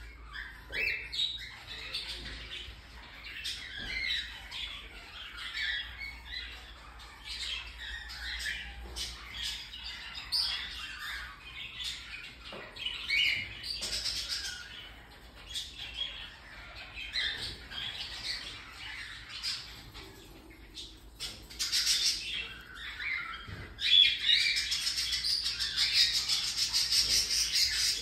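Baby cockatiels squawking and chirping in short, high calls, then, about three-quarters of the way through, a louder, fast pulsing squawk that runs on.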